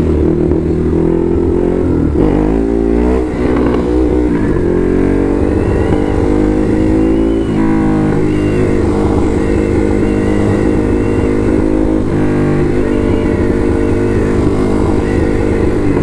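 Ducati Hypermotard SP's L-twin engine running under way, revving and shifting: the pitch sweeps up and down about two to four seconds in, and again near eight and twelve seconds, between stretches of steady running.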